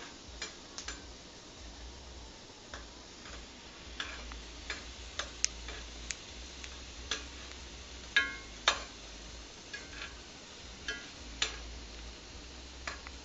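Irregular light clicks and knocks of kitchen utensils against pots and pans, a few with a brief metallic ring. The loudest pair comes a little past the middle.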